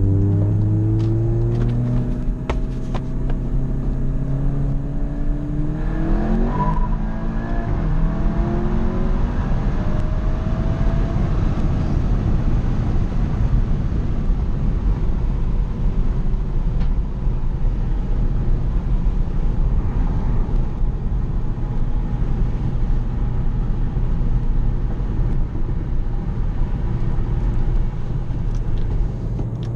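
Volkswagen GTI's turbocharged four-cylinder, fitted with an IS38 turbo, pulling hard through the gears, heard from inside the car. The engine note climbs, drops at upshifts about two and six seconds in, and climbs again. Heavy road and wind noise then takes over at high speed, and a steady cruising engine note returns near the end.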